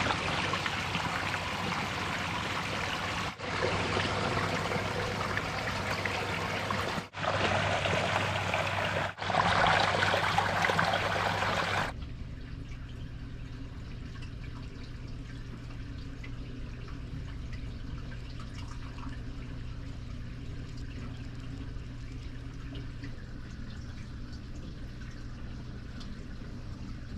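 Running water, a stream or small cascade, heard as a steady rushing hiss across several short cuts for about twelve seconds. Then it gives way to a quieter background with a steady low hum.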